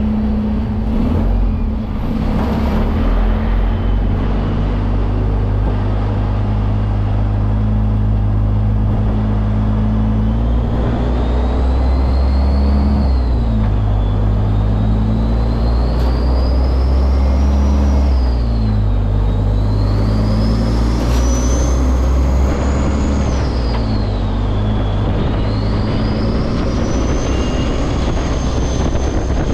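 Semi truck's diesel engine running steadily, then pulling up through the gears from about ten seconds in. A high whine rises with the engine through each gear and drops at each of three shifts.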